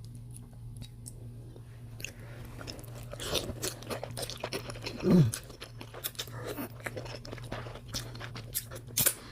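Close-up chewing and biting of surimi imitation snow crab legs topped with onion: many wet clicks and soft crunches that start about two seconds in, with a brief falling hum about five seconds in.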